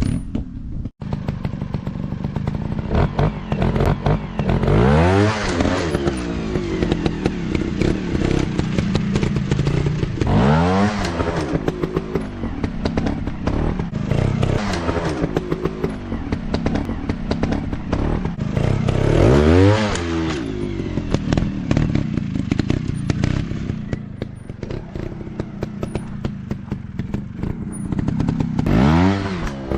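Dirt bike engine running and revving, rising sharply in pitch four times as the throttle is opened, with lower running in between.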